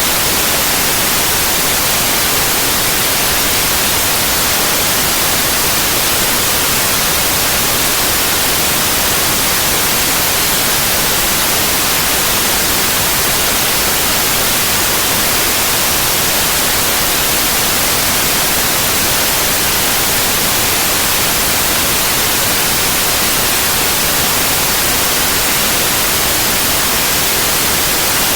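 Continuous synthetic white noise: an even, steady hiss across all pitches, with no changes or breaks.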